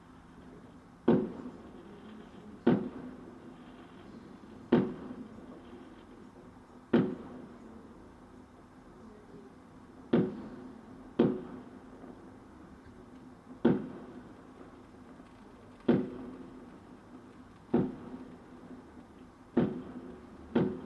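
Firework bangs, about eleven single reports at irregular intervals of one to three seconds, each trailing off in a short echo.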